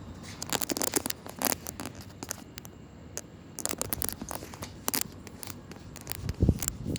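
Irregular crackling and scraping clicks in clusters, with a louder dull thump about six seconds in.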